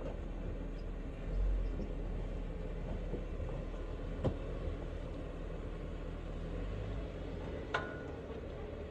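Jeep engine running low and steady while crawling the trail, with two sharp knocks, about four seconds in and near the end.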